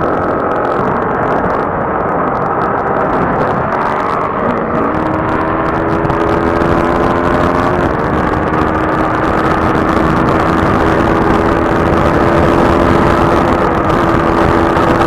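Motorcycle engine running at a steady highway cruise, its pitch stepping up a little about four and a half seconds in, under heavy wind and road rush.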